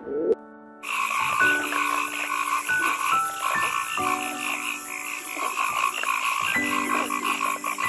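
Frogs calling in a dense chorus of rapid, evenly repeating pulses that starts about a second in, over soft background piano music.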